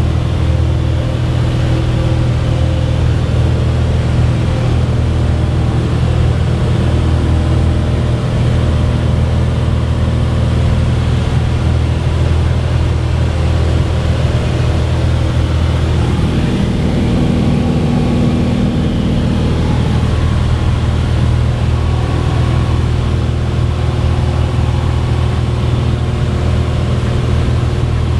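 Cessna 182's piston engine and propeller running with a steady drone.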